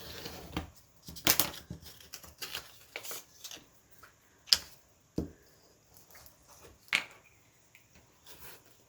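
Paper rustling and light taps as scrapbook paper is handled on a craft table: a scatter of separate short crinkles and clicks, the sharpest about four and a half seconds in.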